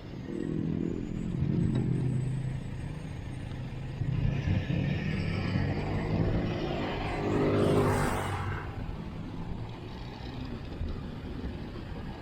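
Motor vehicles running past on the road one after another, their engines rising and fading. The loudest pass-by comes about eight seconds in.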